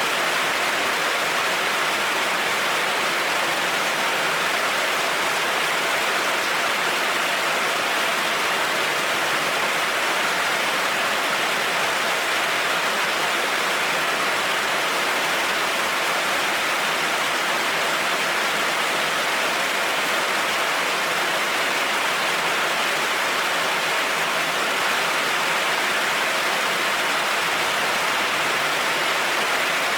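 Heavy rain falling steadily on a road, an even hiss without thunder or other sounds.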